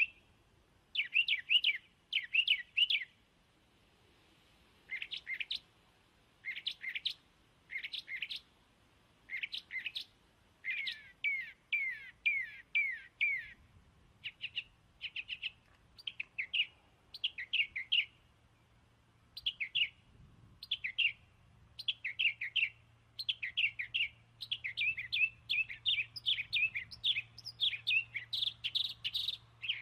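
A small bird chirping over and over: short quick chirps that slide down in pitch, in bursts of several at a time, coming thicker near the end.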